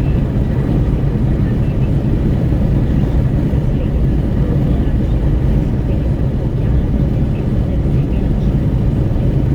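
Steady low rumble of wind buffeting at an open car window in a Renault Kwid at highway speed, mixed with road and engine noise.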